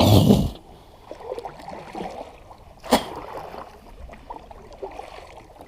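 A sneeze right at the start, then faint water gurgling and trickling around a kayak, with a single sharp knock about three seconds in.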